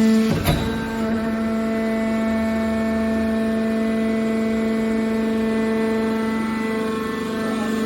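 Scrap copper baler's hydraulic power unit running with a steady, even-pitched hum, with a single sharp knock about half a second in.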